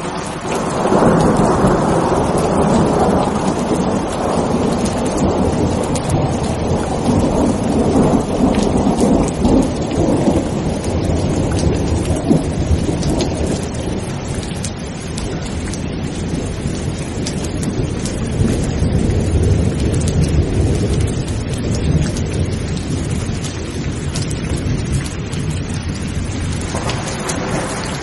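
Steady heavy rain with a long roll of thunder that swells up about a second in, rumbles on for many seconds and slowly dies away, with another rumble building near the end.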